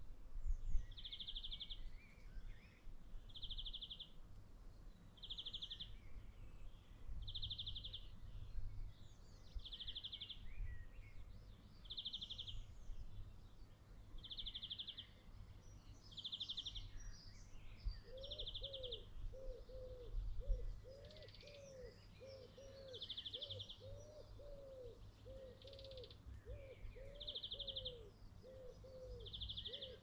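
Outdoor birdsong: a short, rapid high trill repeated about every two seconds, with other birds chirping around it. From just past halfway, a quicker run of short, low, arching calls joins in, over a steady low rumble.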